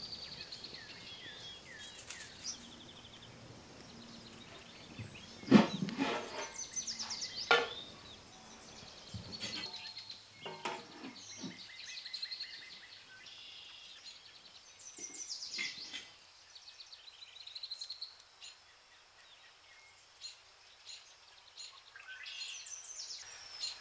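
Birds chirping and trilling throughout, with a few soft thumps and rustles from work at a wooden table, the loudest about five and a half seconds in.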